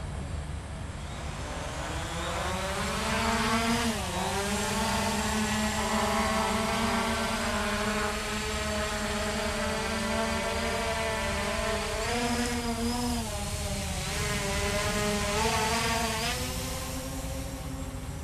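Hubsan H501S quadcopter's brushless motors and propellers buzzing: the pitch rises as they spin up, holds steady with a few brief shifts while the drone hovers, and drops as they wind down near the end.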